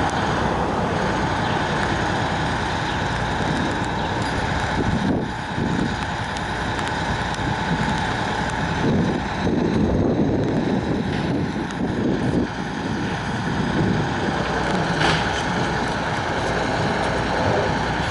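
Heavy vehicle engine running amid street traffic noise, with wind on the microphone.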